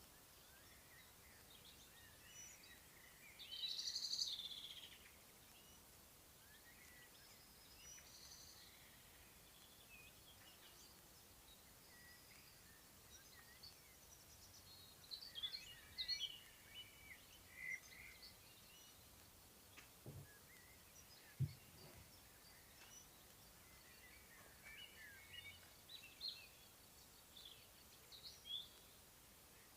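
Faint countryside birdsong: several small songbirds chirping and trilling on and off, with a louder song phrase about four seconds in. Two short low knocks come about two-thirds of the way through, the second the sharpest sound.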